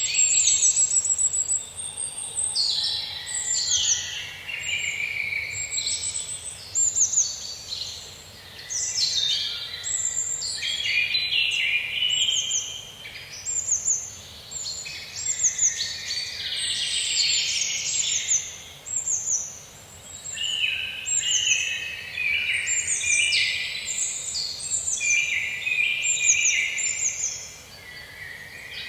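Several songbirds singing and chirping at once in a forest, a dense chorus of overlapping quick, high sweeping notes that swells and thins every few seconds.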